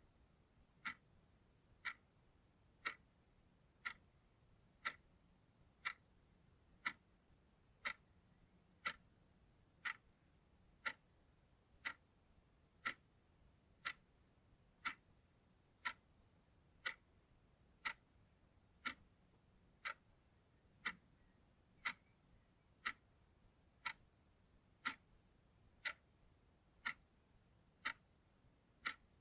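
Clock ticking steadily at one sharp tick a second.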